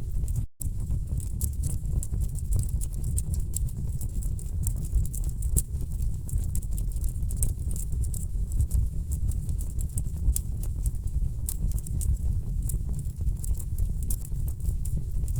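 Wood fire crackling in a fireplace: a dense run of sharp pops and snaps over a steady low rumble of burning logs. The sound cuts out for a split second about half a second in.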